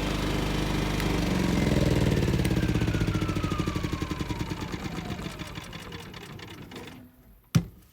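Champion 3400-watt dual-fuel inverter generator idling with no load, then shut off about a second in: its single-cylinder engine coasts down over several seconds, the firing pulses slowing and a whine falling in pitch as it dies away. A single sharp click near the end.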